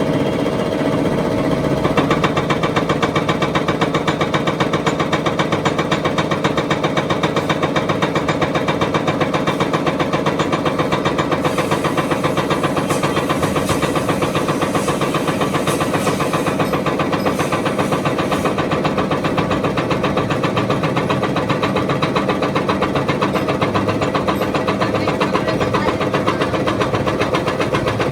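Diesel engine of a 260 tractor running steadily with a fast, even knocking pulse. The engine is said to have started knocking in its cylinder sleeves. About two seconds in, the sound turns brighter and sharper.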